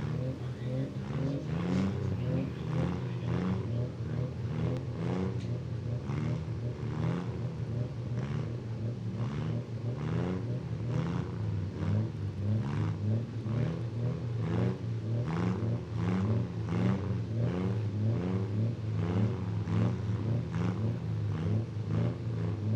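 Several demolition derby cars' engines running and revving at once, their pitch rising and falling constantly, with frequent short sharp knocks mixed in.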